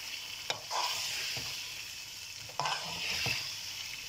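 Soaked chana dal being stirred into chicken masala frying in a large metal pot with a metal slotted spatula: a steady sizzle, with the spatula scraping and knocking against the pot a few times.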